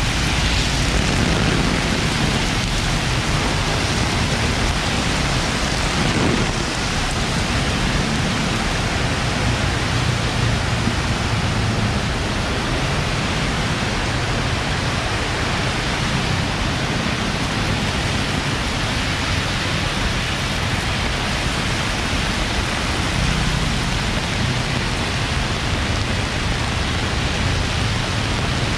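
Heavy rain falling in a steady, even hiss, with a low rumble of traffic on the wet road underneath.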